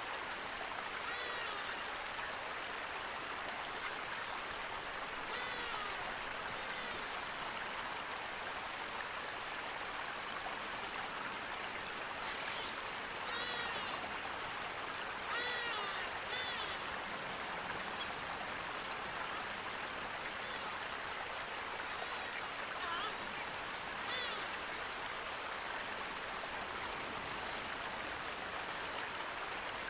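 Stream water running steadily, with scattered short bird calls rising above it, several in small clusters.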